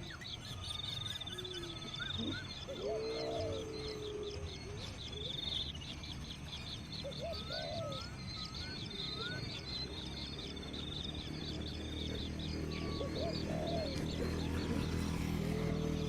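Several birds calling at once: a high, rapid trill, a short run of rising whistled notes, and lower arched calls repeating throughout, over a steady low hum.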